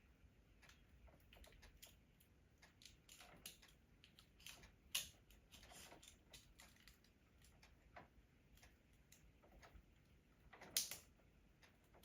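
Faint, scattered clicks and taps from handling metal hose clamps and tools, with two sharper clicks: one about five seconds in and one near the end.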